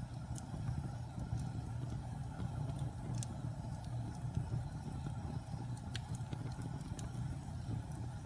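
Fire burning in a fireplace with a steady low roar and a few sharp crackles and pops.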